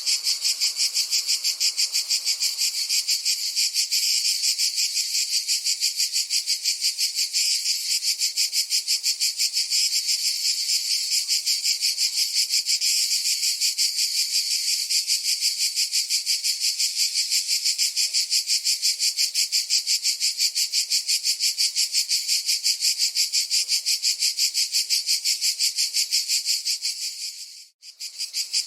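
Cicada chorus: a loud, high-pitched buzz in a rapid, even pulse that runs steadily. About a second before the end it fades out, drops out for a moment, then starts again.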